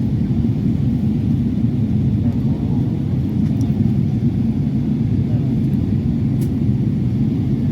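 Steady low rumble of airliner cabin noise: engines and air noise heard from a passenger seat, even and unbroken.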